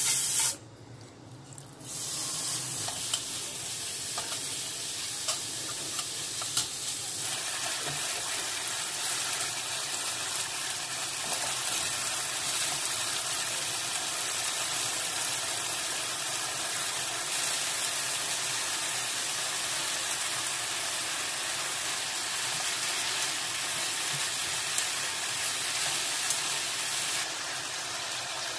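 Food sizzling steadily as it is stir-fried in a nonstick frying pan: julienned carrot, then strips of pork and oyster and shiitake mushrooms, with occasional clicks of chopsticks against the pan. The sizzle drops away briefly just after the start.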